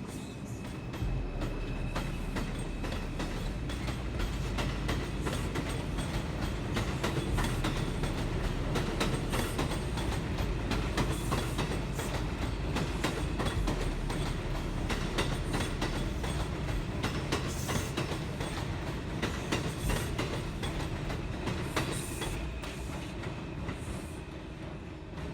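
NYC subway train running along the elevated track through the station, its wheels clattering over the rail joints with some wheel squeal; it gets louder about a second in and fades near the end.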